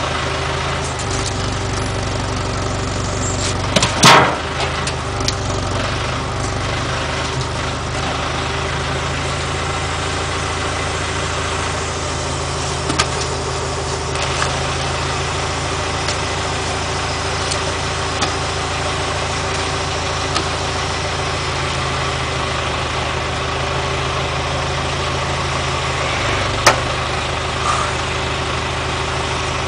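IHC tractor engine idling steadily, with a few sharp knocks over it, the loudest about four seconds in.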